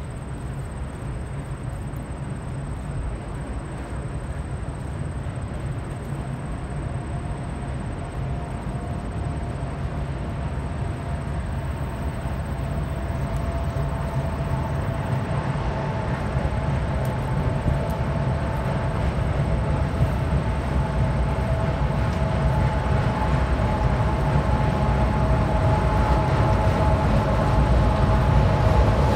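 Train rolling past with a steady low rumble. About six seconds in, a high steel wheel squeal with two steady pitches sets in and grows louder as the whole sound swells toward the end.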